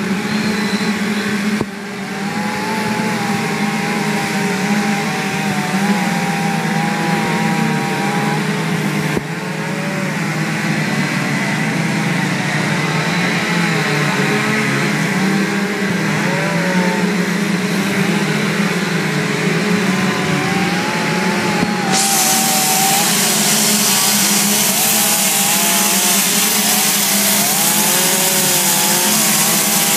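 Chainsaw running at high revs while carving wood, its pitch wavering up and down as the load changes. The sound changes abruptly three times, about 2, 9 and 22 seconds in.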